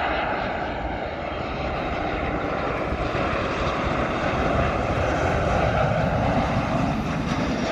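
Boeing 737-700 jet airliner passing on its landing approach, its turbofan engines making a loud, steady rushing roar that swells a little past the middle and eases near the end.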